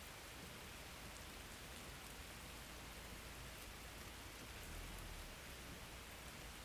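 Steady rain falling, a soft even hiss with a faint patter of drops. A low rumble swells briefly about five seconds in.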